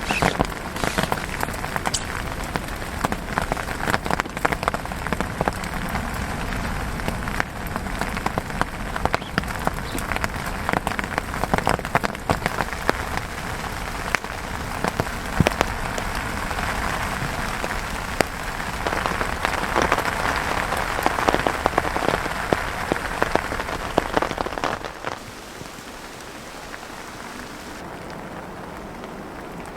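Steady rain, with many close individual drop hits, turning suddenly quieter near the end.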